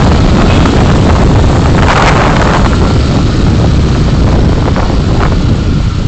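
Steady road and wind rumble of a car driving, picked up by a dashcam microphone, with a brief louder rush about two seconds in.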